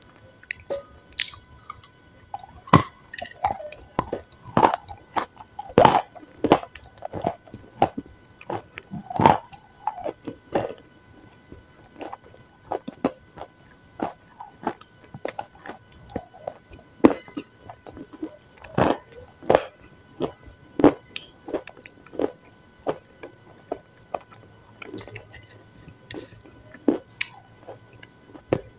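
Chewing and biting: irregular crunches and wet squishes, roughly one every second or so, as someone eats white chalky lumps coated in a dark paste.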